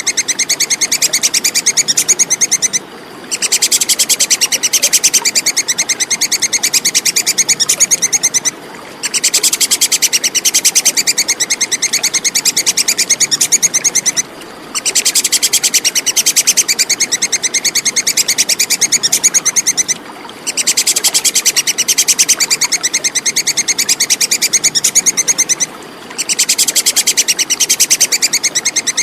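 Tupai kekes squirrel giving its high, rapid chattering call in bouts of about five and a half seconds, each broken by a short pause, repeating at even intervals.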